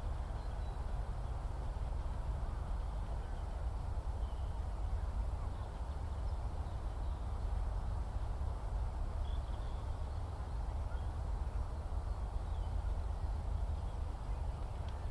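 Open-country ambience: a steady low rumble with an even background hiss, and a few faint, short bird calls now and then.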